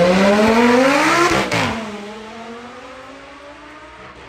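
Hypercar engine accelerating hard, its pitch climbing for about a second and a half, then dropping and fading as the car pulls away.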